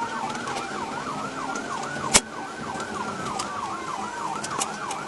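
Police car sirens during a pursuit: one in a fast yelp, about four sweeps a second, while another wails slowly down and back up in pitch. A single sharp click about two seconds in.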